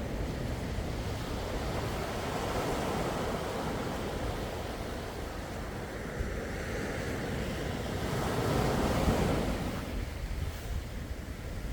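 Sea waves washing onto the shore as a steady rush, with one wave swelling louder about nine seconds in and then easing off. A low rumble of wind on the microphone runs underneath.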